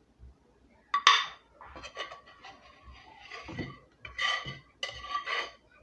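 Serving spoon scraping and clinking against a pot and plate while rice is dished out: a sharp clink about a second in, then repeated scrapes and knocks.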